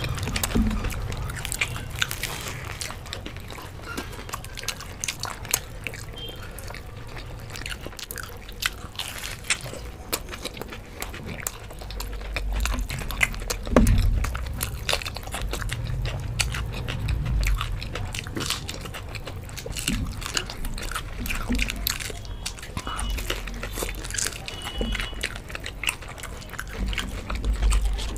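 Two people biting and chewing crisp fried samosas, with many small crunches and mouth sounds. A few low thumps, the loudest about halfway through.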